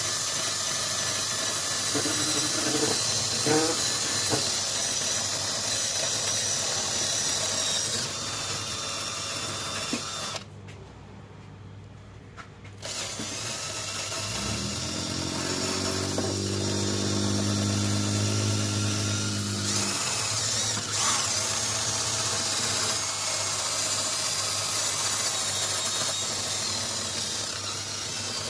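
Electric drill spinning a wire wheel to clean the lawnmower's shaft, with a steady high scrubbing hiss of wire bristles on metal. About ten seconds in it stops for a couple of seconds, then the drill spins up again with a rising whine and keeps scrubbing.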